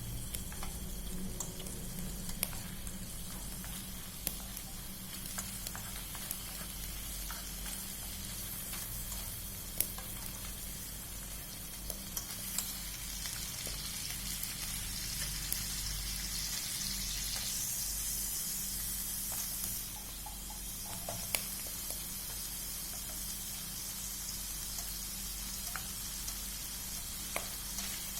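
Food frying in hot oil: a steady sizzle with scattered sharp pops, swelling a little about two-thirds of the way through and then settling back.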